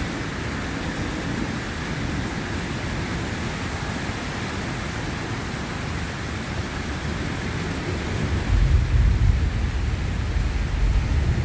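Steady rain falling, with a low rumble of thunder rising about eight and a half seconds in.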